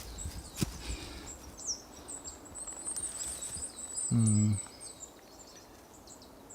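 A small bird twittering in rapid, high chirping notes through the first half. About four seconds in comes a brief low vocal sound from a man, the loudest moment.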